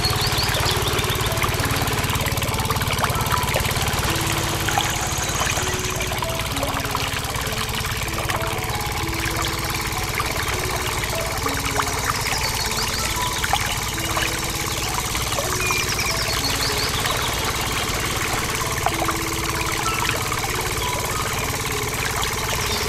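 Small diesel engine running steadily, driving a water pump.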